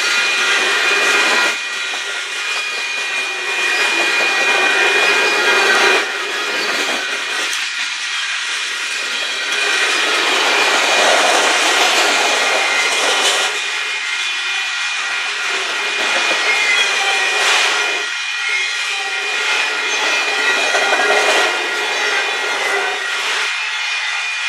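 Union Pacific freight train passing close by: steel wheels rolling and clattering along the rails, rising and falling every few seconds, with a steady high whine over it.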